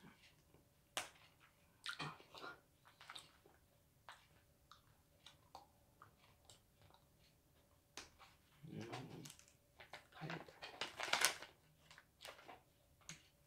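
Close mouth sounds of eating an Apollo sugar straw: scattered small clicks of biting and chewing on the thin plastic straw to squeeze out the candy, with a louder, denser stretch about ten seconds in.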